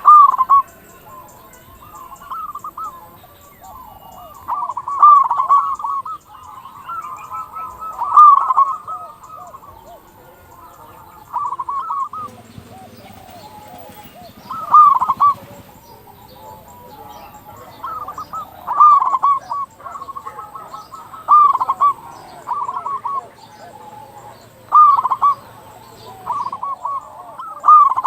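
Zebra dove (perkutut) cooing: short rolling phrases of pitched coos repeat about every two to three seconds, each phrase sitting around the same pitch.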